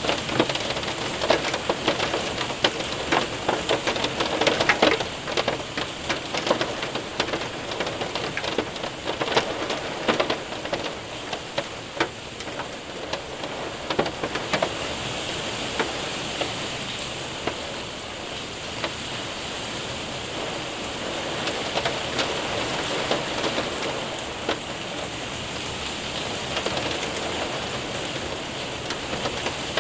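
Hail and rain hitting a window and roof: a dense clatter of sharp hits over a steady hiss of rain. About halfway through the hits thin out into a smoother, steady rush of rain.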